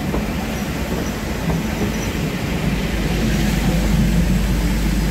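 Vintage railway coaches rolling slowly past on the rails, a steady rumble of wheels on track with a faint high wheel squeal now and then.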